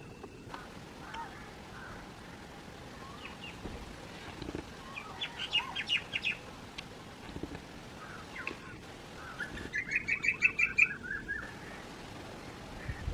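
Several songbirds chirping and calling, with a quick run of chirps about halfway through and a louder, rapid trill-like series of notes about ten seconds in.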